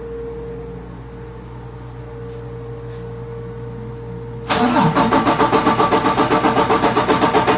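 Detroit Diesel DD15 inline-six diesel being cranked by its starter. After a steady low hum, a loud rhythmic chugging starts suddenly about four and a half seconds in, at about eight beats a second.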